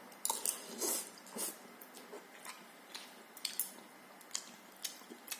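A person eating noodles, with a string of short, soft mouth sounds of chewing and lip-smacking, about one or two a second.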